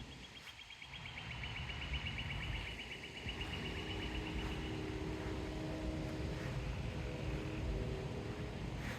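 A vehicle going by: a low rumble that builds over several seconds with a steady hum in the middle of it. A high, rapid trill sounds through the first half.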